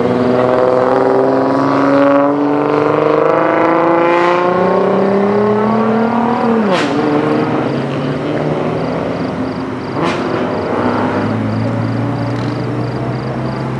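A high-performance car engine accelerating hard, its pitch climbing steadily for about six seconds, then dropping sharply at a gear upshift. A second shift comes about ten seconds in.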